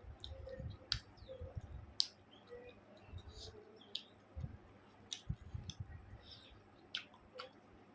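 Eating sounds: wet mouth clicks and lip smacks while chewing, a dozen or so sharp clicks at irregular intervals over soft low thuds.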